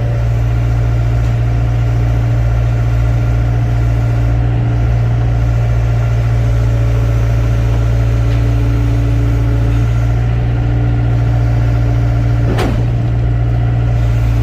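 Excavator's diesel engine running steadily, with one sharp knock about twelve and a half seconds in.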